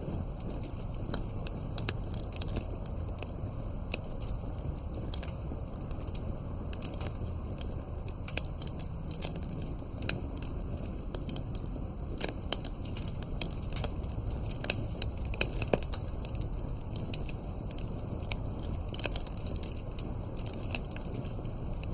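Campfire burning, wood crackling and popping irregularly over a steady low rumble of flames, with a few louder pops.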